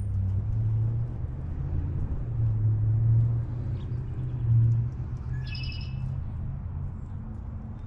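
A low, steady rumble in the background, with one short songbird chirp about five seconds in.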